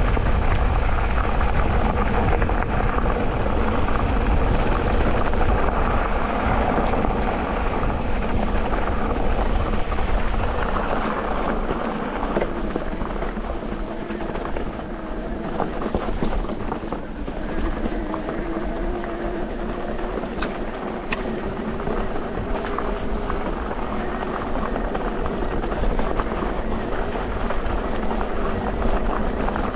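Electric mountain bike ridden over a dirt trail: continuous tyre and rattle noise with many small clicks, and a faint motor whine that rises and falls.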